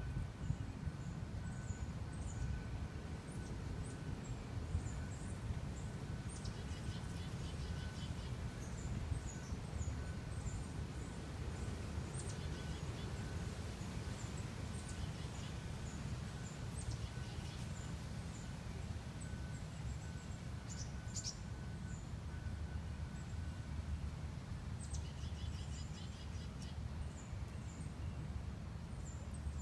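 Outdoor ambience of small songbirds calling, with short high chirps scattered throughout and two brief runs of quick repeated calls, over a steady low rumble. A faint steady high hum stops about three-quarters of the way through.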